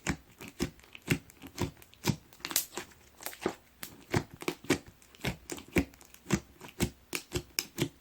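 Chex Choco-style slime being squeezed and pressed by hand, giving a run of sharp crackling pops, roughly two a second.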